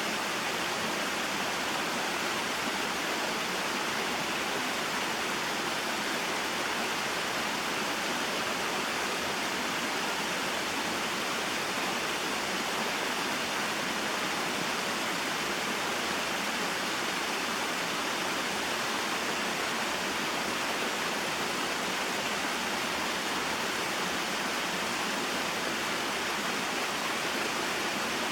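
Small waterfall and mountain stream, water pouring and flowing in a steady, even rush.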